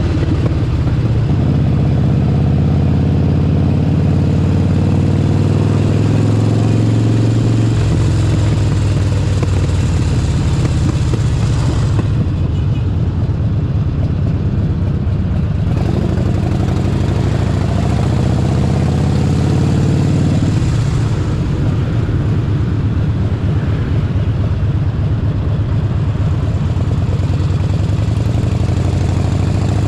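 Harley-Davidson Forty-Eight Sportster 1200's air-cooled V-twin running under way, its steady low engine note shifting about eight seconds in. A hiss over the engine thins out for a few seconds around twelve seconds in and again from about twenty-one seconds.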